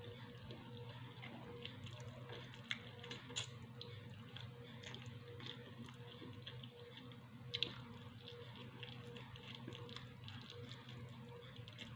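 Faint eating sounds: scattered small clicks of utensils against a plate with chewing, over a steady low electrical hum.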